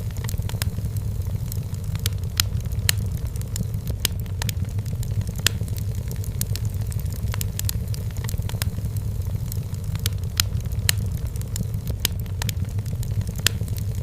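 Wood fire burning in a fireplace, with sharp irregular crackles and pops over a steady low rumble.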